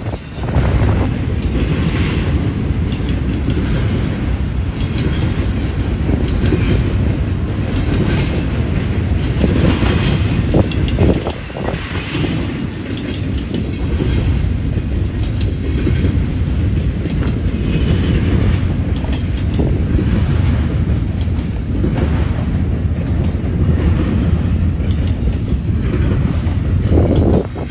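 Train cars rolling past at close range: a steady heavy rumble with repeated clicks of the wheels over the rail joints.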